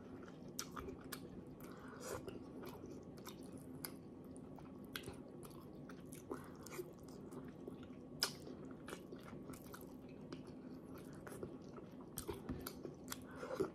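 Faint close-up chewing with scattered small mouth clicks and smacks: a person eating soft vinegar-stewed pompano fish by hand. A faint steady hum runs underneath.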